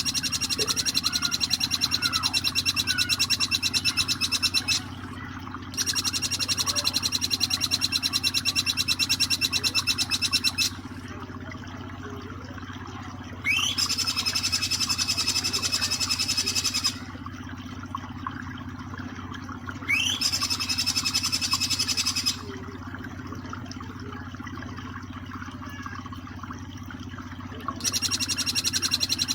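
Jing jing petulak singing its rapid-fire 'nembak' song: five long bursts of a very fast, even, high trill, each several seconds long, two of them opening with a quick rising sweep. Steady flowing water runs underneath, with faint chirps in the gaps.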